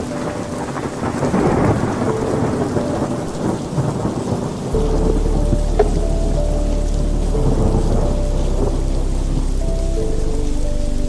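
Steady rain with rolling thunder swelling and fading, mixed with soft background music of long held notes; a deep low drone joins about halfway through.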